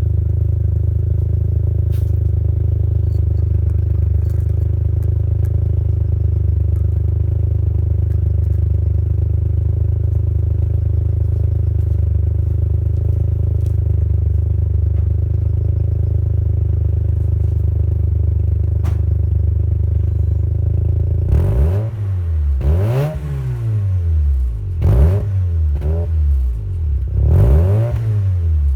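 Mazda RX-7 FC3S's 13B rotary engine through a Fujita exhaust, idling steadily, then revved several times about twenty seconds in, each rev rising and falling in pitch.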